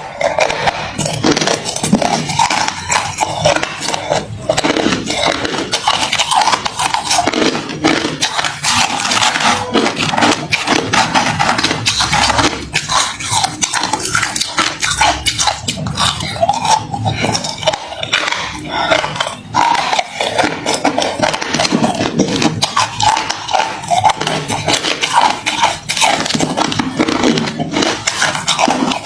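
Close-up chewing and crunching of hard refrozen crushed ice, a dense, continuous run of crunches and cracks.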